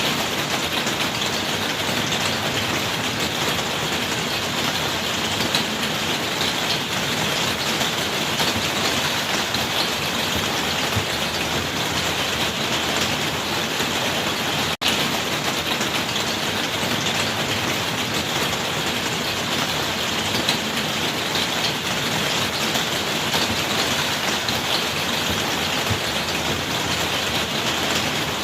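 Steady rainfall: an even hiss of many raindrops. It cuts out for a split second about halfway through.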